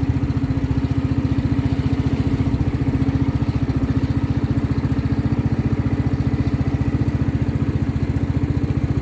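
Small boat engine running steadily at an even speed with a fast, regular putter.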